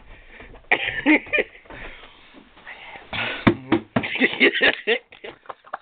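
Breathless, wheezing laughter in bursts, broken by a couple of sharp clicks or knocks.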